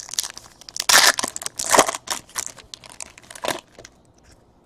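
A trading-card pack and its cards being handled, with crinkling and rustling in a run of short bursts that stops about three and a half seconds in.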